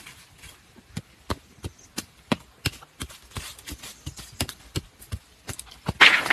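A blade chopping bamboo: a run of sharp, irregular knocks, about two or three a second, with a louder rasping burst near the end.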